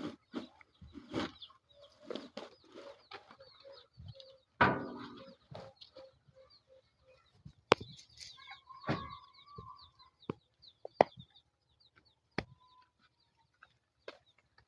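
Chickens clucking in a run of short, evenly spaced notes, with high chirping and a few sharp knocks.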